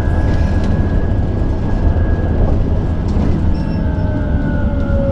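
Cabin noise of a moving electric bus: a steady low rumble with a thin whine over it. Near the end a louder whine comes in and glides slowly down in pitch.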